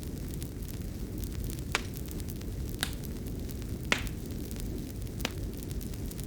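Fireplace wood fire crackling: a steady low rumble with four sharp pops, the loudest about four seconds in.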